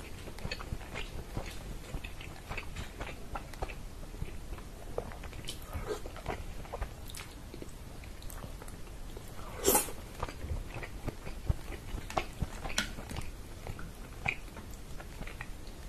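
Close-miked chewing and wet mouth smacks from eating pressure-cooked chicken in tomato sauce, with soft sticky squelches of fingers pulling the sauced meat apart; one louder smack about ten seconds in.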